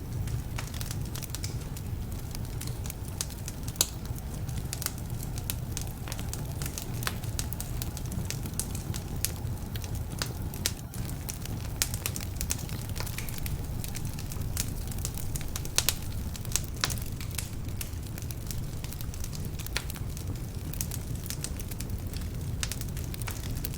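Wood fire burning in a fireplace: a steady low rumble of the flames with frequent irregular crackles and pops, a few sharper ones standing out, from logs that are a little damp.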